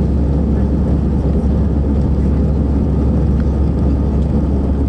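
Steady jet-airliner cabin noise: a low, even rumble of engines and airflow heard from inside the passenger cabin.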